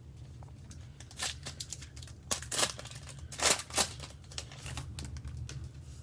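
Trading-card pack wrapper being torn open and crinkled: a run of crackling rips and rustles, loudest about two and a half and three and a half seconds in, over a steady low hum.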